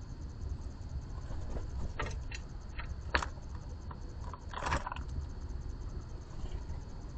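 Ambience at an outdoor bird feeder: a steady low rumble under a fast, even insect trill, with a few short sharp taps and scuffs from birds on the feeder about two, three and nearly five seconds in.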